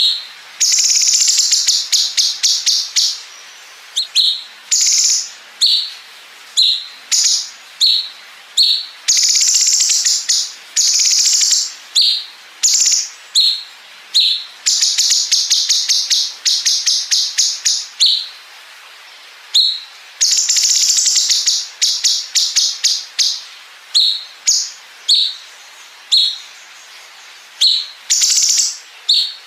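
Cucak cungkok singing a high-pitched song of short sharp chirps alternating with long, very rapid machine-gun-like trills (the 'bren'), each trill lasting two to three seconds.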